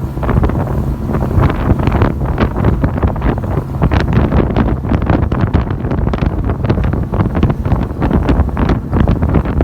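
Wind buffeting the microphone on a moving boat: a loud, constant rumble with rapid gusty crackles.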